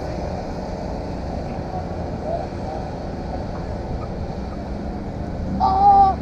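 Steady low engine drone, an even hum with no changes in pitch.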